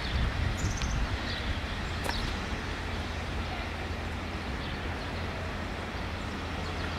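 Diesel-hauled passenger train pulling away through the station: a steady low rumble, with a single sharp click about two seconds in.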